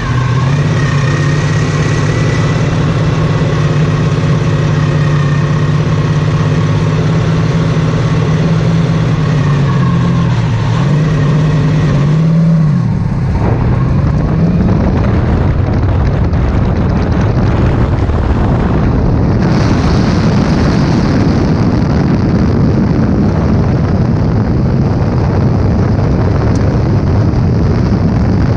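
Porsche 917/10 Can-Am car's turbocharged flat-twelve idling steadily, with a few short dips and rises in pitch about ten to thirteen seconds in. After that, steady wind noise on the helmet-camera microphone covers the engine.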